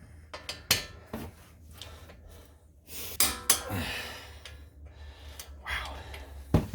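Scattered sharp metallic clicks and knocks of tools and parts being handled during the hub reassembly, with a heavy breath about three and a half seconds in.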